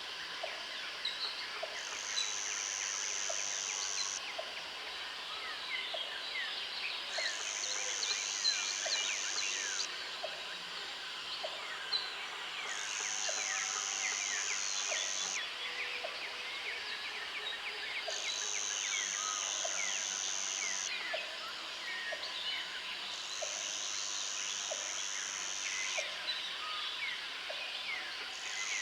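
Countryside ambience: many birds chirping and calling over one another, with a high, even buzz that comes on for two or three seconds and stops again, about every five seconds.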